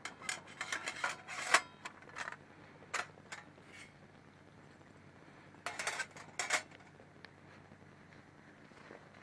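Metal camping gear being handled: a run of sharp clinks and knocks in the first couple of seconds, one more a second later, and a few more around six seconds in.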